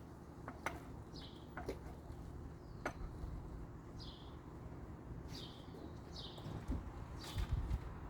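A small bird repeats short, high, downward-slurred chirps every second or so. Four sharp clicks fall in between, and a low rumble comes near the end.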